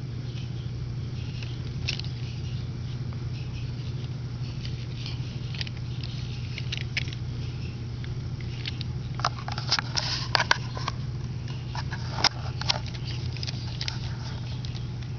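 Plastic Lego Technic parts of a front axle clicking and rattling as it is handled and turned, with a busier run of clicks about two-thirds of the way through, over a steady low hum.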